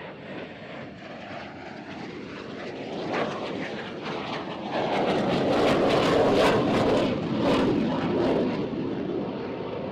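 Fixed-wing aircraft engine noise passing by, growing steadily louder to a peak about two-thirds of the way through, then easing off.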